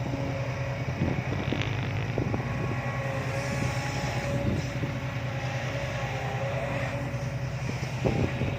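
Heavy diesel machinery engine running steadily, with a few short knocks over the drone.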